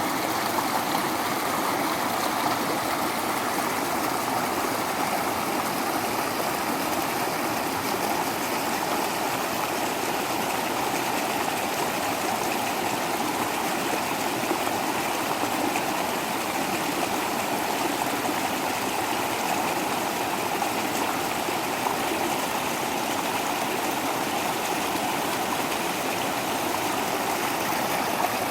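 Small waterfall: water splashing and rushing over rocks in a steady, unbroken rush.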